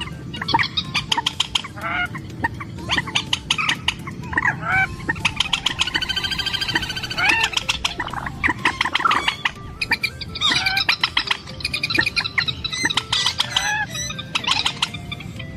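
A trích rẽ, a red-shielded rail, calling to attract a mate: fast runs of sharp, clucking, squawking notes, with a longer, evenly pulsed trilling call about halfway through.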